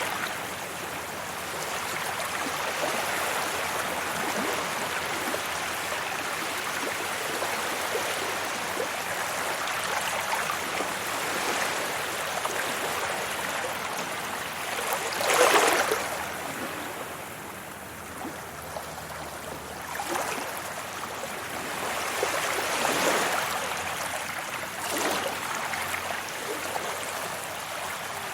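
Sea waves washing onto a beach in a steady rush of surf. A loud wave breaks about halfway through, and two smaller ones break later.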